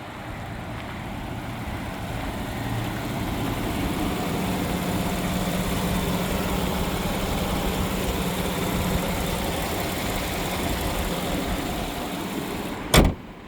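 A 2015 GMC Sierra 1500 pickup's engine running steadily at idle, swelling slightly in the first few seconds. Near the end there is a single sharp knock, after which the engine sound drops away.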